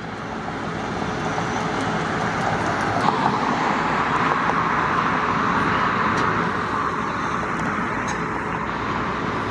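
Steady rushing noise of road traffic, swelling over the first few seconds and then holding.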